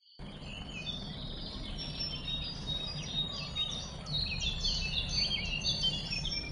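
Several songbirds chirping and singing at once, many short overlapping calls and trills, over a steady low background rumble.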